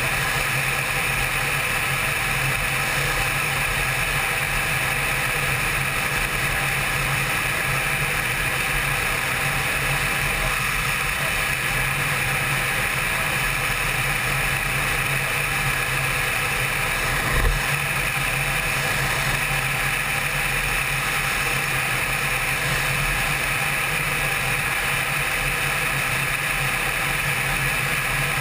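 Honda CBR600's inline-four engine running steadily at cruising speed, heard from a camera on the rider's helmet. There is a brief thump about 17 seconds in.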